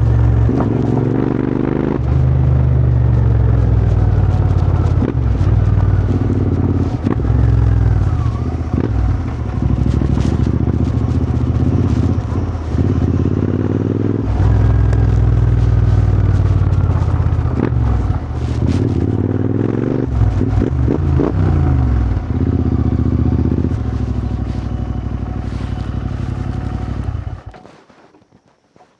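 Royal Enfield Continental GT 650's parallel-twin engine running through a Powerrage aftermarket exhaust while riding, revving up and falling back again and again with short breaks between runs. The sound drops away suddenly near the end.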